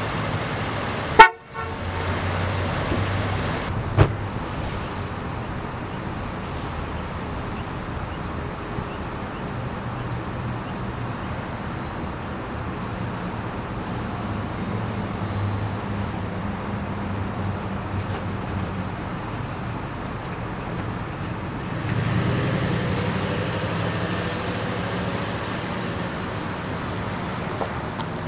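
A car horn gives one short toot about a second in. Then the 2001 Cadillac DeVille's 4.6-litre V8 runs steadily at idle, and it gets louder from about three quarters of the way through as the car drives off.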